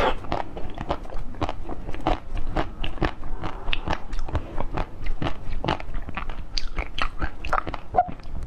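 Close-up biting and chewing of a blue-coated treat with a yellow centre: many small irregular crunches and crackles as it breaks apart in the mouth.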